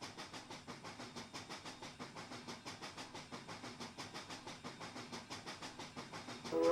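Steam locomotive exhaust chuffing in a quick, even beat, about four to five chuffs a second, from the Pennsylvania Railroad doubleheader of 7002 and 1223 working a train. Near the very end a steam whistle starts to blow.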